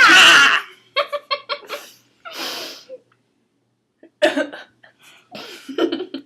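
Girls' voices: a loud, wavering squawk at the very start, then stifled giggles and breathy laughs in short quick bursts, lips held over the teeth.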